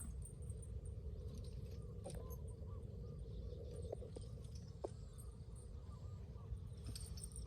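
Outdoor ambience: a steady low rumble with scattered faint chirps and a few soft clicks.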